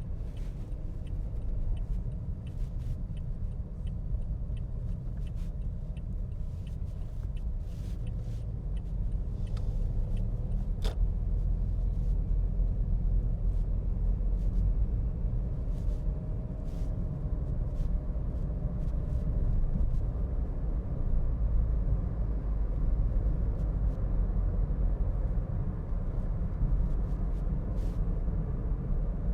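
Steady low rumble of a car on the move, heard from inside the cabin: engine and road noise, a little louder after about twelve seconds, with a few faint ticks.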